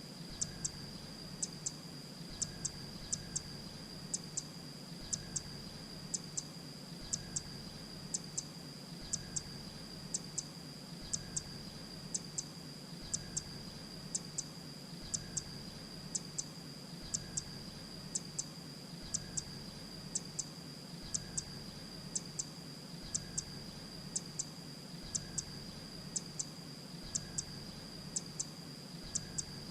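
Grey-breasted prinia calling: short, very high notes in pairs and threes, repeating evenly about once a second over a steady high whine.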